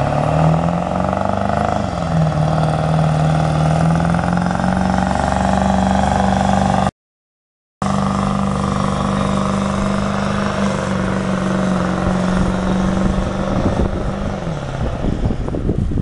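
Ford Power Stroke diesel pickup engine running hard at high revs under load, pulling a sled, its pitch held nearly steady. A brief total silence cuts in about seven seconds in, and the revs fall away near the end.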